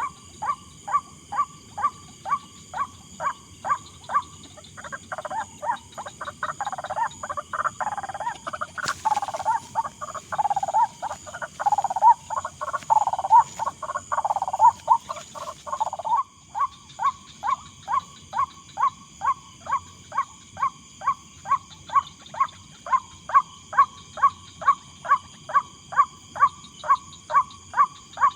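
White-breasted waterhen calling: a monotonous run of repeated croaking notes, about two to three a second. From about five seconds in to about sixteen seconds in it breaks into a denser, rougher chorus of overlapping calls, then returns to the steady repeats.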